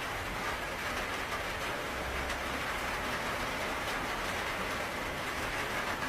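Steady rain falling, an even hiss of drops with faint scattered patter.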